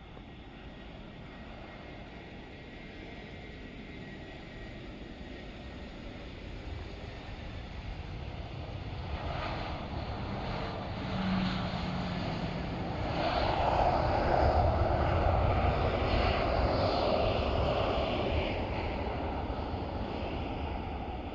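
Jet airliner's engines passing by, growing steadily louder to a peak about two-thirds of the way through, then easing off.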